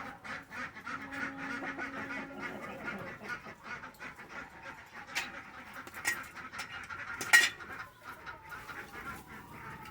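Domestic ducks quacking in quick, repeated calls, with one sharp knock about seven seconds in.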